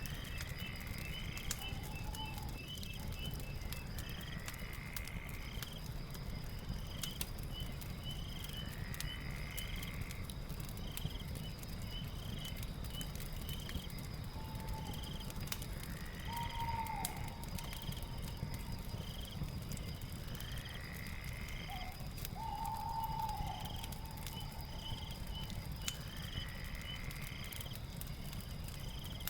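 Night ambience of insects and calling creatures over a crackling fire. A steady high insect trill and rows of quick chirps run on, a rising call repeats every four to five seconds, and a few longer calls come in now and then. Scattered sharp pops from the fire sound over a low, steady rumble.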